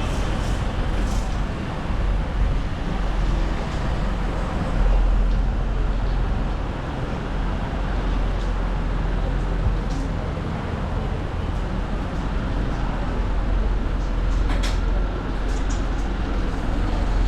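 Steady, loud outdoor noise of wind gusting over the microphone and road traffic, with a few short sharp clicks.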